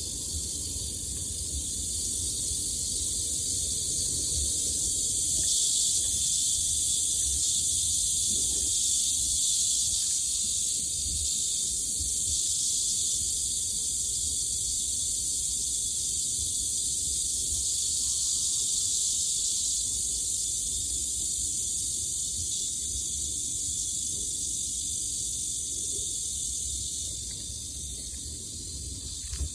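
Steady high-pitched insect chorus, swelling slightly a few seconds in and fading near the end, over an uneven low rumble.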